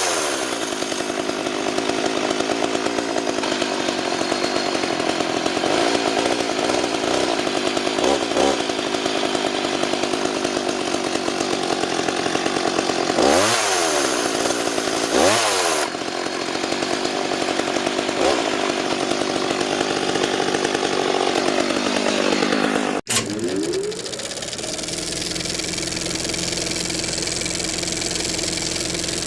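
McCulloch MAC 3516 two-stroke chainsaw running at high revs, dipping and picking back up twice about halfway through, then falling to a steady idle near the end.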